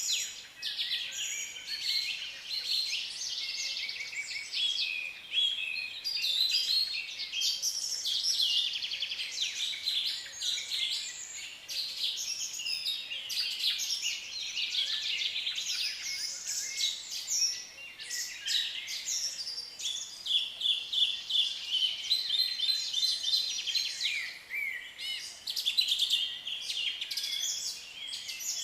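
A group of lovebirds chirping and chattering continuously, many shrill, high-pitched chirps overlapping without a break.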